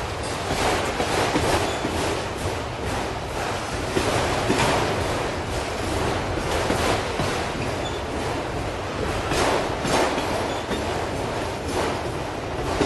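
Auto train's autorack freight cars rolling past, their steel wheels clacking over rail joints again and again over a steady rumble.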